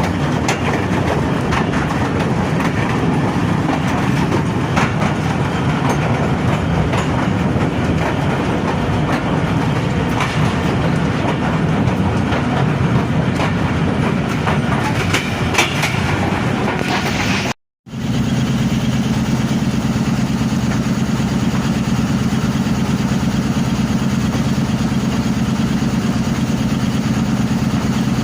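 Train wagons rolling past with wheels clicking over the rail joints. After an abrupt cut about two thirds of the way in, a steady low engine hum takes over, typical of an idling diesel locomotive.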